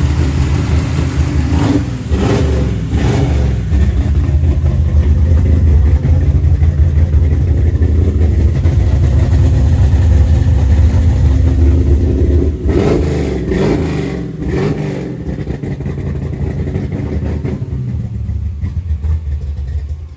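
1966 Plymouth Satellite's 426 Hemi V8, fed by a custom 850 CFM carburetor, running loud and revving up and back down, around two seconds in and again about thirteen seconds in.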